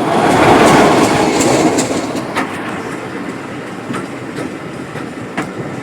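Diesel-hauled train passing close by, led by a Class 26 locomotive. It is loudest in the first second or two as the locomotive goes by, then the coaches roll past with wheels clicking over rail joints.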